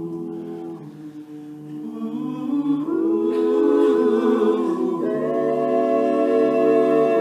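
A cappella vocal group singing wordless sustained chords, humming and ooh-ing in close harmony, swelling louder about two to three seconds in.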